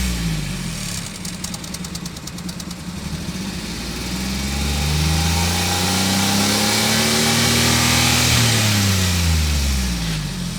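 Maruti Suzuki Alto 800's three-cylinder petrol engine being revved. Its pitch drops back from a rev in the first couple of seconds, climbs steadily from about four seconds in to a peak near eight seconds, then falls back toward idle near the end.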